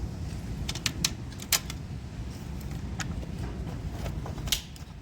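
Sharp plastic clicks and knocks of batteries being fitted into a Christmas-light battery box, about five of them spread out, over a steady low hum.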